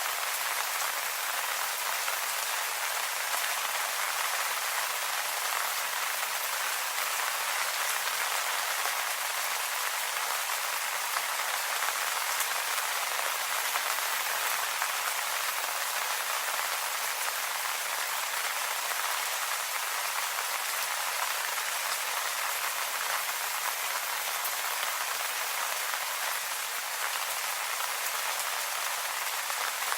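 Steady rain falling on leaves, an even dense patter with no breaks.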